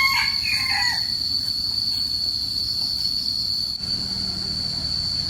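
A rooster crowing, its call ending about a second in, over a steady high-pitched whine and a low rumbling noise. Near the end a low steady hum joins in.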